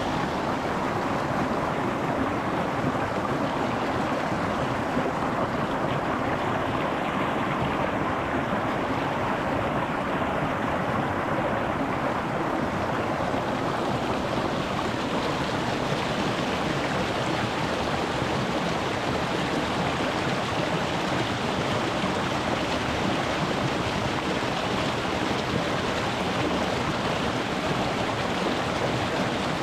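Rocky mountain stream flowing over stones, a steady, even rush of water. It turns a little brighter and hissier about halfway through.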